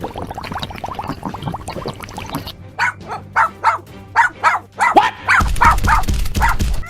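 A quick run of short, sharp animal calls, about two or three a second, over background music, with a low rumble joining near the end.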